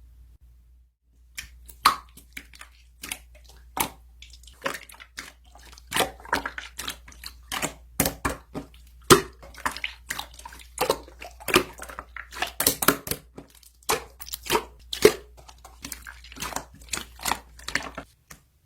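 Hands squishing and stretching slime: a dense run of sticky clicks, pops and crackles, irregular and uneven in loudness.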